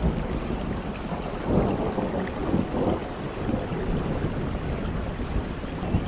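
Steady rain falling, with low rumbling thunder that swells about one and a half to three seconds in.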